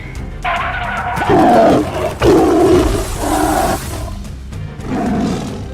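Big-cat roar sound effects, two long roars and a shorter one near the end, over background music.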